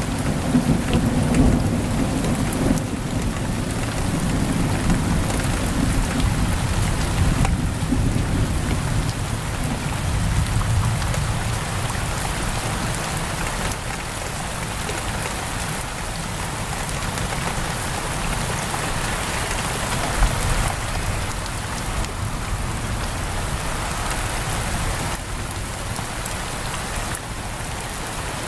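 Heavy rain pattering steadily on a window, with a low rumble of thunder through the first half that fades away.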